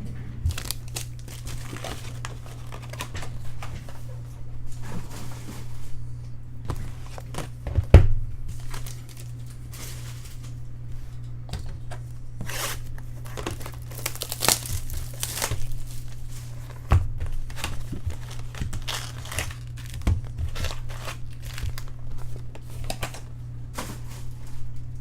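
Trading-card pack wrappers crinkling and tearing as packs are handled and opened, with a sharp knock about eight seconds in and a steady low hum underneath.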